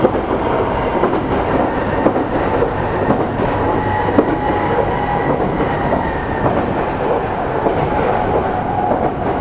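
Meitetsu 300-series commuter train (set 317F) running steadily at speed, heard from inside the car: a steady rumble of wheels on rail with a faint thin whine above it.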